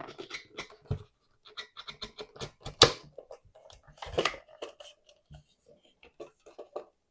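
Clicks, scraping and knocks of a screwdriver and hands taking the screws out of a Marshall Pure Evoke DAB radio's case and opening it up, with two louder knocks about three and four seconds in.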